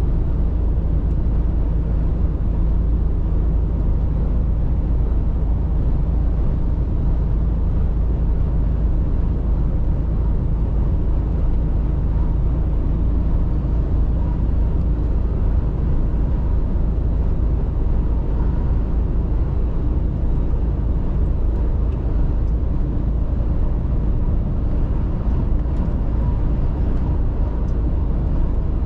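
Mercedes-Benz Actros truck's diesel engine and road noise while driving: a steady, deep, even rumble that does not change.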